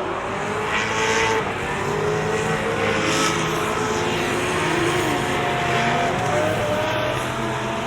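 Several track cars' engines revving, their pitches rising and falling as they run on the circuit.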